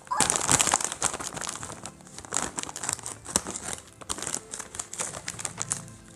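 A plastic snack-chip bag crinkling as it is handled, loudest about the first second, then continuing in sharp crackles.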